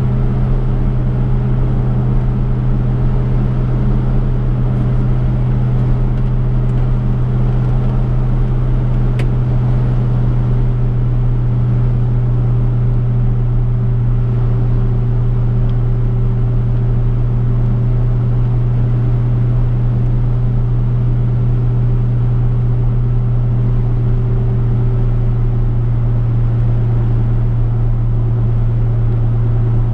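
Chevrolet V8 engine droning steadily while the car cruises at an even speed, with low road rumble beneath.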